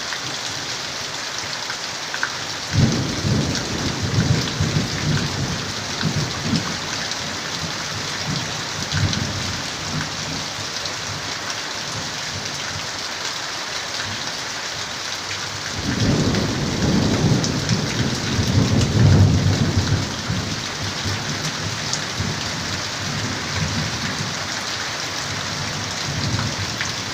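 Steady rain falling hard, with two long low rolls of thunder, one starting about three seconds in and a louder one about sixteen seconds in that peaks a few seconds later.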